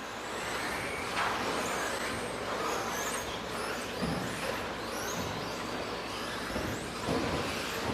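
Several radio-controlled 2WD stadium trucks with 13.5-turn brushless electric motors racing, their motors whining high and rising and falling in pitch as they speed up and brake, over the hiss of tyres on the track. A few low thumps come through around the middle and near the end.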